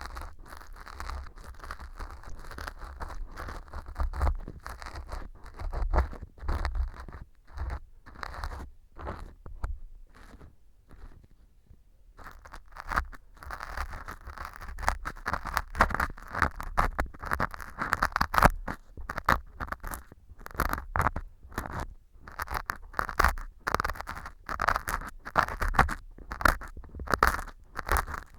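Metal ear pick scraping and crunching pieces of fu (dry wheat gluten) glued like earwax inside a model ear, a close, crackly scratching with irregular strokes. The fu has soaked up the glue and stuck hard, so the pick grates on it. The scraping goes quieter for a few seconds about a third of the way in, then comes back denser and louder.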